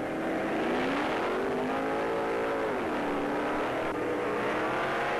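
Drag car's engine at full throttle down the strip, pitch climbing, then dropping sharply a little over halfway through as it shifts gear and pulling up again.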